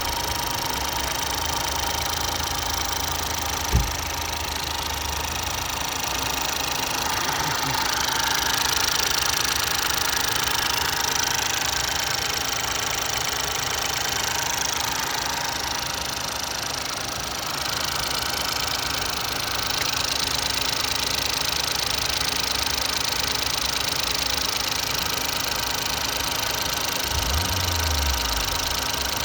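Ford 1.0 EcoBoost turbocharged three-cylinder petrol engine running steadily at idle, with a single sharp knock about four seconds in.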